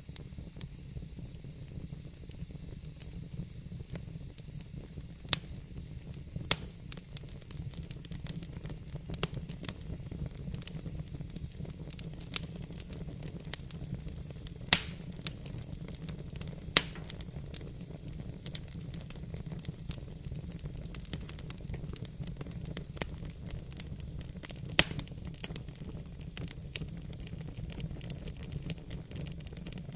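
Wood fire burning in a fireplace: a steady low rumble with scattered crackles and sharp pops, a few of them louder than the rest.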